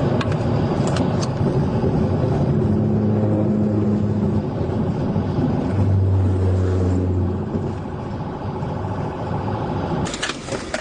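Police patrol car driving at high speed, its engine and road noise heard from inside the cabin as a steady rush with a low drone that comes and goes.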